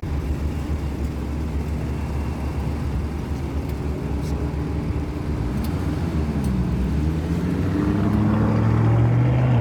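Car engine running with a steady low drone; about seven seconds in its pitch dips, then climbs and grows louder as the engine revs up near the end.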